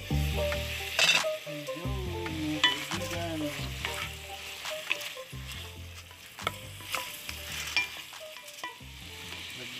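Beef, tomato and onion sizzling in a pot as a wooden spoon stirs them, with the spoon knocking and scraping against the pot several times.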